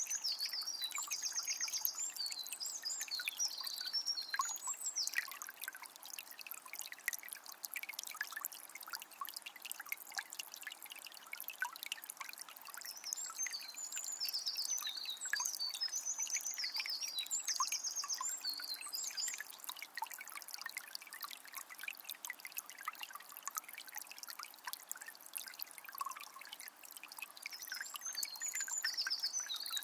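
Forest river trickling and babbling steadily, with a songbird singing a high twittering phrase three times: at the start, about halfway through, and near the end.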